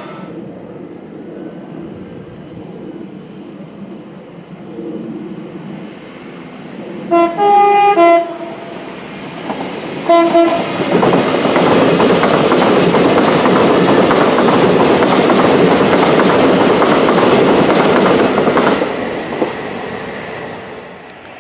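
A train approaches and sounds its horn, two short blasts and then a brief third, then passes at speed with a loud rushing noise for about eight seconds before fading away.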